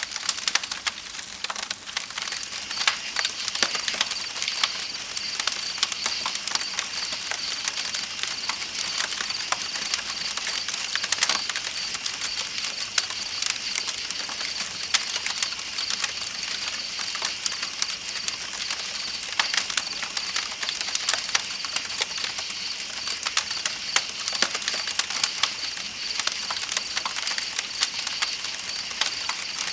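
Campfire crackling with frequent sharp pops, over a steady hiss of flowing river water and a continuous high-pitched chirping of night insects.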